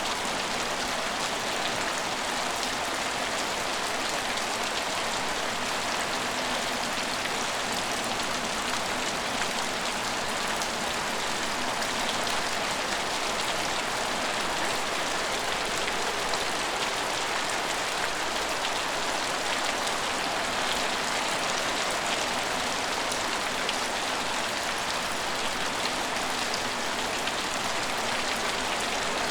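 Steady rain falling on a station's roofs and platform, an even hiss dotted with drop impacts.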